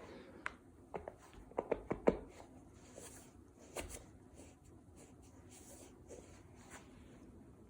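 Scattered small clicks, taps and rustles of handling, clustered about one to two seconds in with a few more near four seconds.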